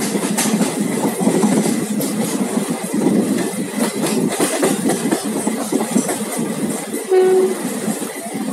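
Passenger train running at speed, heard from an open coach door: wheels clattering over the rails under a steady rush of running noise and wind. A short horn blast sounds about seven seconds in.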